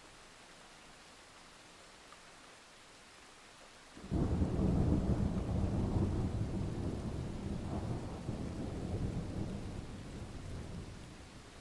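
Steady rain falling, then about four seconds in a loud thunderclap breaks in suddenly and rumbles on, fading away over the next several seconds.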